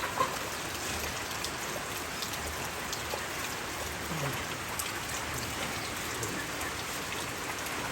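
Steady rain falling, with many small drops ticking on surfaces, and a couple of louder drips near the start.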